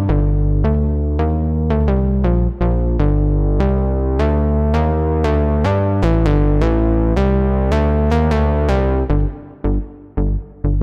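Waldorf Pulse 2 monophonic analog synthesizer playing a preset: a sequenced line of plucky bass notes, several a second, each with a bright attack that dies away. About nine seconds in the notes turn short and clipped, with gaps between them.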